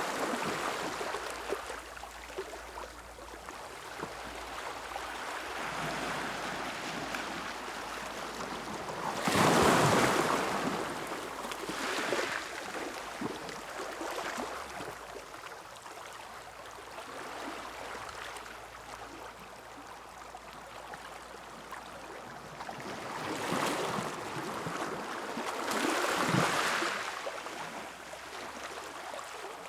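Ocean surf breaking on a beach: a steady wash of water noise that swells and ebbs. The largest wave crashes about a third of the way in, and two more build and break near the end.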